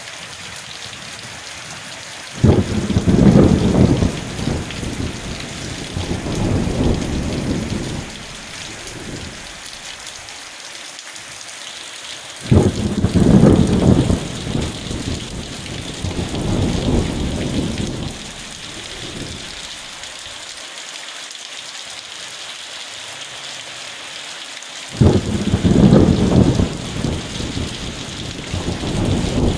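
Steady rain falling, with three rolls of thunder about ten seconds apart, each starting suddenly and rumbling on for several seconds before fading.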